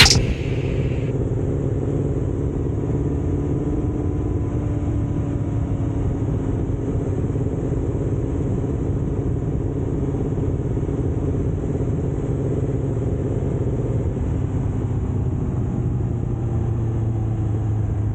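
Kawasaki ZX-7R's inline-four engine running steadily under way, a constant drone whose pitch drifts slowly down and back up.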